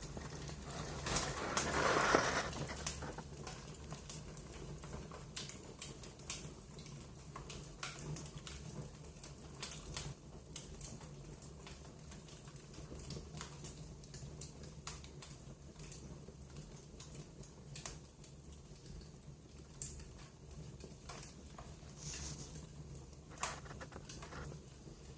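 Wood fire crackling in a fireplace: irregular snaps and pops over a steady low hum, with a louder burst of noise about two seconds in.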